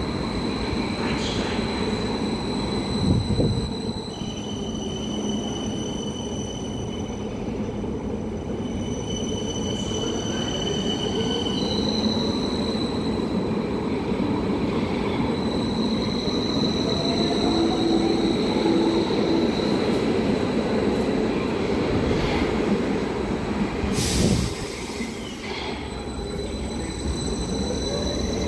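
Berlin U-Bahn train running along the track with a steady low rumble and high wheel squeal that comes and goes. A faint rising whine sounds midway, and there is a sharp knock about three seconds in and another near the end.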